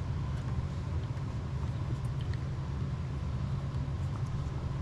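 A steady low rumble, like a running engine or machinery, with a few faint small clicks about two seconds in and again near the end.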